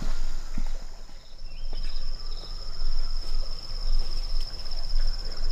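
An insect trilling steadily in a high, rapidly pulsing tone, over a loud low rumble.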